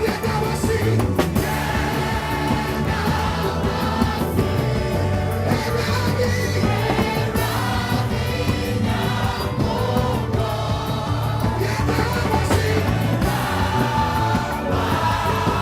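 Gospel choir singing praise with a backing band: steady bass and drum beat under the voices.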